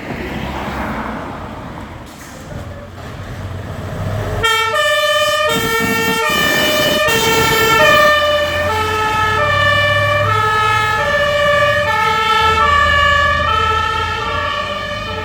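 Fire engine's diesel engine running, then about four seconds in its two-tone emergency horn (German Martinshorn) starts, switching back and forth between a high and a low pitch about every half second over the engine's rumble.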